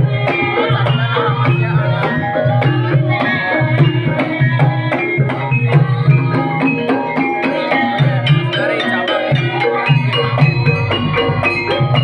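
Banyumasan gamelan music for ebeg: struck metallophones ring out a busy repeating melody over a steady pulse of low hand-drum (kendang) strokes.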